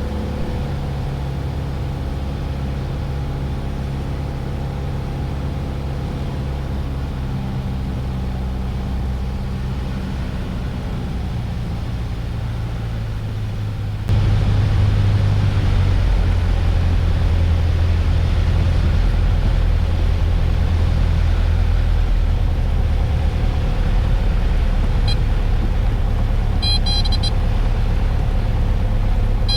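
Cabin sound of a Piper Warrior II's four-cylinder Lycoming engine and propeller running steadily. The loudness and low hum jump up suddenly about halfway through. A few brief high beeps come near the end.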